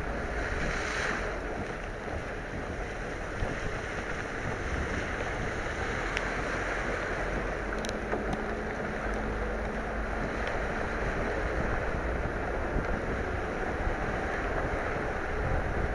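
Steady rush of rain and water on a flooded street, with wind noise on the microphone. About eight seconds in, a car drives past through the standing water.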